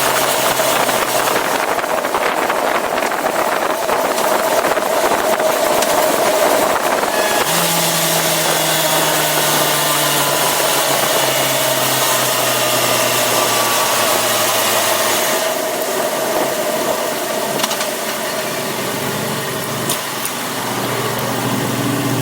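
Yamaha FZ6R sportbike's inline-four engine running on the move, with wind rush over it. About a third of the way in the engine note jumps up and then slowly falls, and past the middle the wind noise drops away as the bike slows; near the end the engine note rises again.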